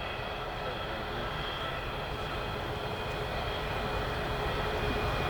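Boeing 787-9's Rolls-Royce Trent 1000 turbofans in flight, a steady rumble with several high whining tones, growing slowly louder as the airliner comes closer.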